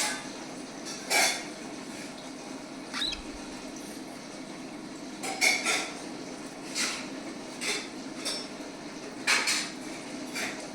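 Cockatiel pecking and tearing at coriander leaves on a banana leaf: irregular short, crisp crackles and rustles, about nine of them, some with a tiny squeak.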